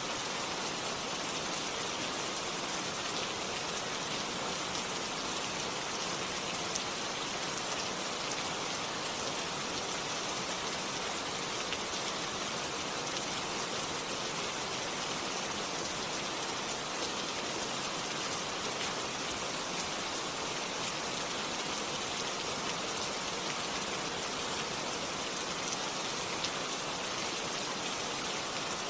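Steady rain falling, an even hiss of rain with scattered individual drop ticks. No thunder.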